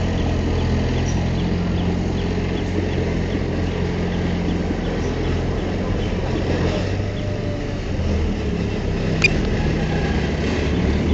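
Heavy diesel engine of a construction machine running steadily under load, its note shifting about seven seconds in, with a short sharp click about nine seconds in.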